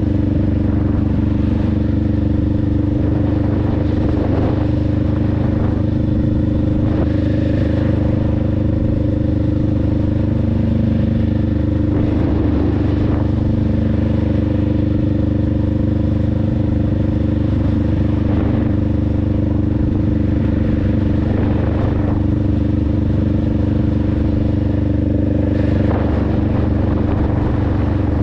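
Honda Rebel 500's parallel-twin engine and exhaust running at a steady engine speed, the pitch holding nearly constant throughout.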